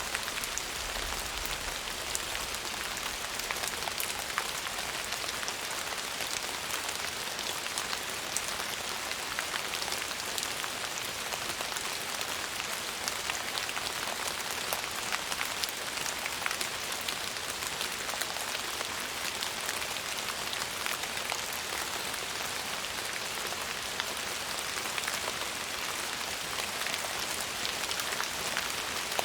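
Steady rain falling on a surface, an even hiss sitting mostly in the upper range, with many small drop ticks scattered through it.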